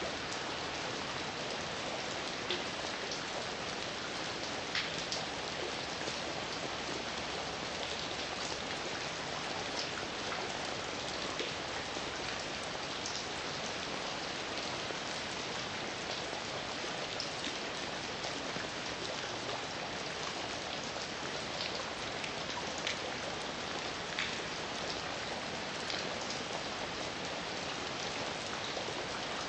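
Heavy rain falling steadily, a dense even hiss with scattered sharper drop impacts on a surface.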